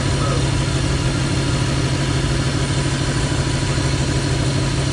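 Car engine idling steadily, loud and close, with a strong low hum.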